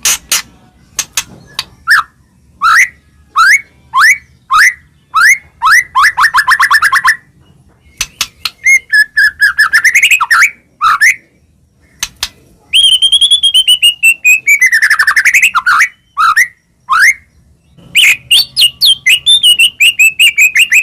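A songbird singing a varied song: short rising whistled notes, fast rapid trills and longer swooping phrases, with brief pauses between bursts.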